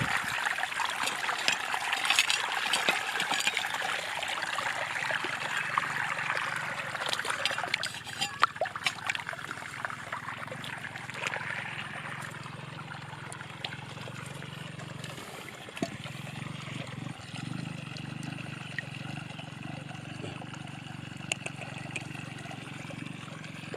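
Water trickling and running over rocks in a small stream, with scattered light clicks; a low steady hum comes in about four seconds in.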